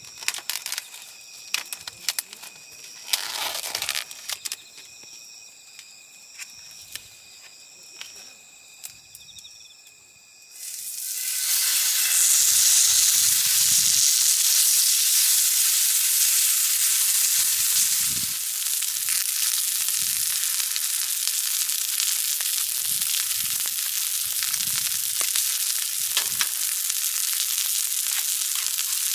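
Crickets chirping steadily, with a few clicks and knocks. About ten seconds in, meat goes onto a hot pan and starts sizzling loudly, and the frying continues.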